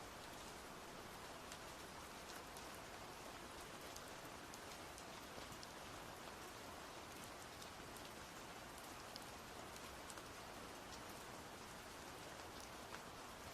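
Faint, steady rain-like patter with many scattered small ticks.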